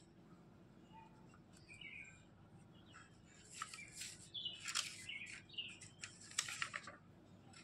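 Small birds chirping: a few short chirps, then a busier run of sharp chirps in the second half.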